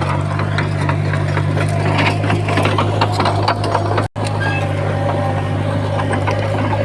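Diesel engine of heavy earthmoving machinery running steadily under load, with continual metallic clanking and rattling over it. The sound cuts out for an instant about four seconds in.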